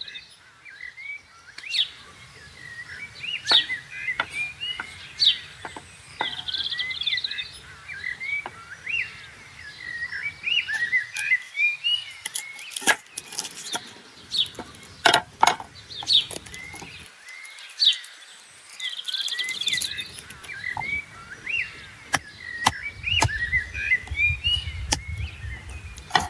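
Small birds chirping and twittering throughout in many short, quick notes. Scattered sharp clicks and knocks sound over them, and a low rumble rises near the end.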